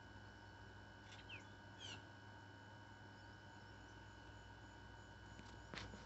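Near-silent yard with a few faint, quick, high bird chirps that fall in pitch, about a second in and again just before two seconds. A single soft click comes near the end.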